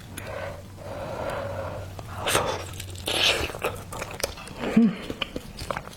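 Close-up eating sounds: a person biting and chewing a soft oyster, with wet mouth clicks and smacks. There is a brief low hum of the voice a little before five seconds.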